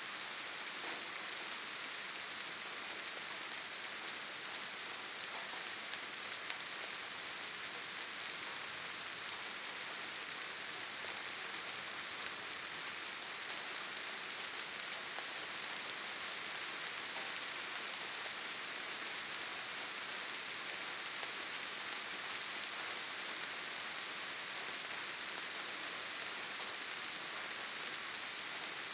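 Steady rain falling: an even, unbroken hiss, brightest in the high range, with faint scattered drop ticks.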